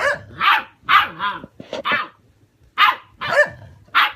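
Dog barking: about nine short, high-pitched barks, some in quick pairs, with a brief pause past the middle.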